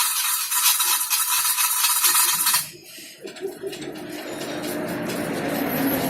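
Wood lathe turning: a tool cutting into the spinning wood makes a loud hiss for about two and a half seconds, then stops abruptly. After that the lathe runs on with a lower, steady hum that slowly grows.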